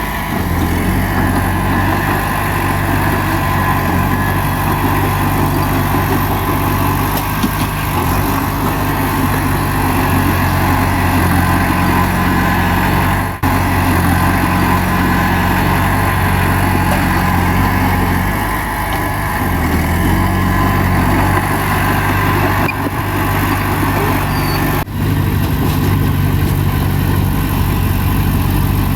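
Bulldozer's heavy diesel engine running steadily, with two brief drops in level, one about halfway through and one later on.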